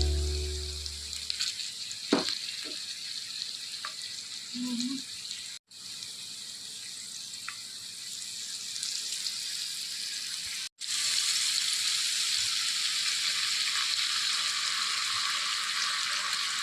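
Chicken frying in hot oil in a pan: a steady sizzle with a few light knocks from stirring. The sizzle drops out twice and is louder after the second break. Background music fades out at the start.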